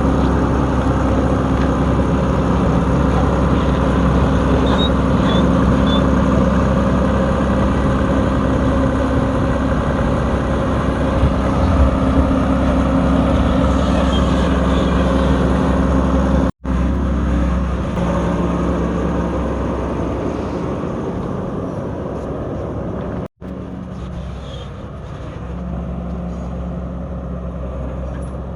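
Heavy diesel engine running steadily at an even speed, cut off twice for a moment and a little quieter in the second half.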